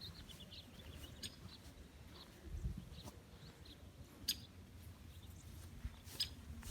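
Faint outdoor ambience: scattered short bird chirps, a few sharp clicks, and a low rumble with an occasional thud from walking.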